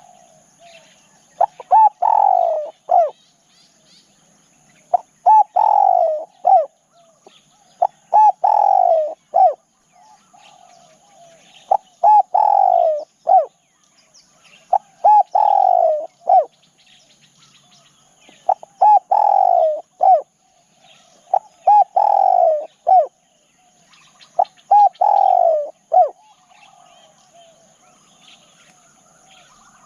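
Spotted dove cooing: eight phrases about every three seconds, each a couple of short notes, a longer falling croo and a short closing note. Faint chirps of other birds between the phrases.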